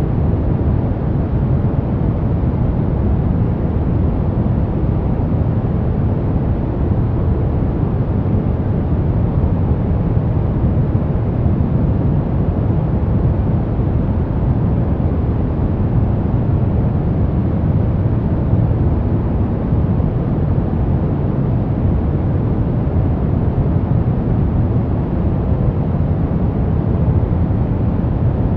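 Steady white noise for baby sleep: an even, unbroken rush with most of its weight low down and little hiss at the top, unchanging throughout.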